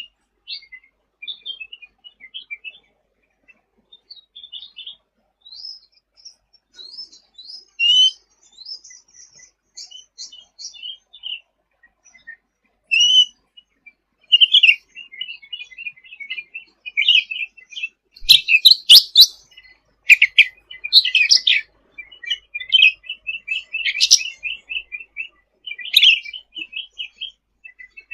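Cucak ranting bird in full song: quick, high chirps and twittering trills, sparse at first and busier and louder from about halfway through.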